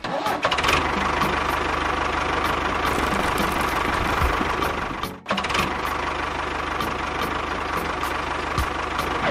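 A small engine running steadily with a regular knocking beat, briefly cut off a little after five seconds in before it resumes.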